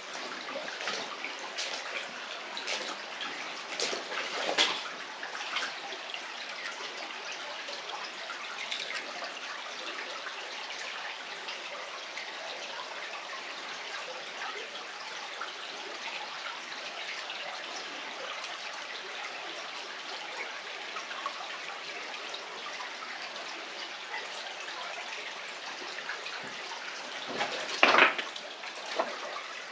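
Mountain stream water running and trickling over rocks, a steady rushing with drips. A few sharper splashes or knocks stand out about four seconds in, and a louder one near the end.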